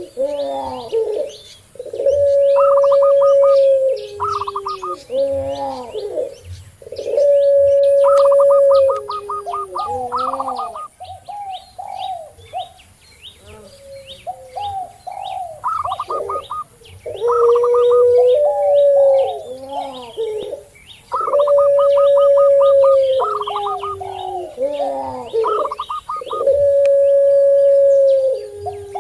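Doves cooing together: a puter pelung (ringneck dove) gives long held coos that step down in pitch at the end, about every five seconds. Between them come the quicker rippling, stuttering coos of a zebra dove (perkutut) and a spotted dove (tekukur). Small birds chirp faintly and steadily in the background.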